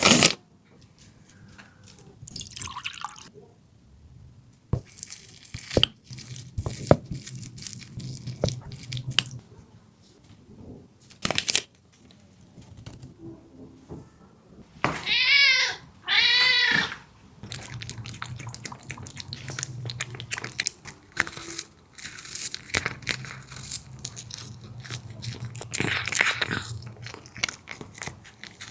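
Wet crunching, clicking and dripping of juicy food, likely watermelon, being cut and handled. Two short wavering whines come about 15 and 16 seconds in.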